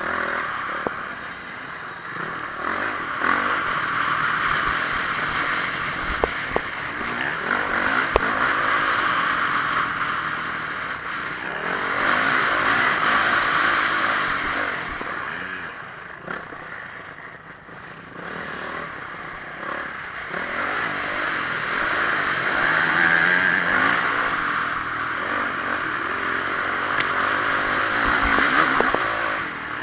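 Honda CRF450R single-cylinder four-stroke motocross bike engine under race riding, revving hard and easing off again and again, with a brief lull about two-thirds of the way through and a few short knocks about a quarter of the way in.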